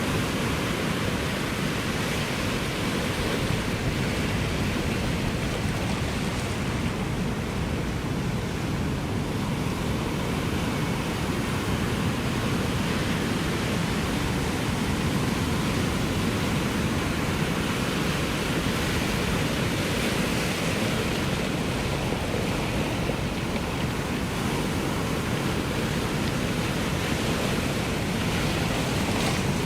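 Ocean surf, a steady dense rush of water with hardly any rise and fall between waves.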